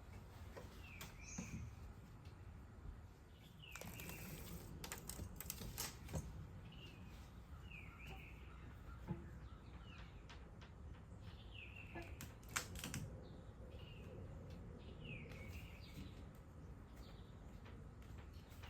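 A bird chirping short falling notes again and again, with scattered light clicks and taps over it, the sharpest about twelve and a half seconds in.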